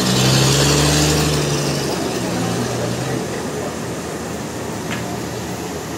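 Sawmill machinery running: a steady motor hum with a high hiss that fades after about three seconds, leaving a steady background noise.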